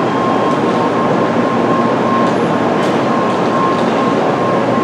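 Tokaido Shinkansen train running along the platform: a loud, steady rolling rumble with a thin steady whine above it.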